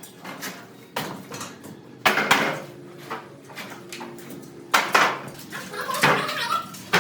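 Irregular sharp knocks and clatters of hard objects striking one another, about six in all, some ringing briefly like metal.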